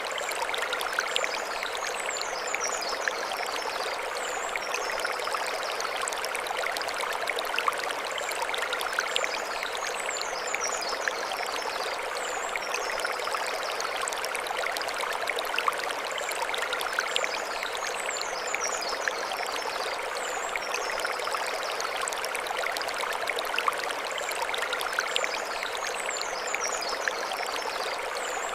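Mountain stream running over stones, a steady rushing and splashing. A set of high chirps comes back about every eight seconds.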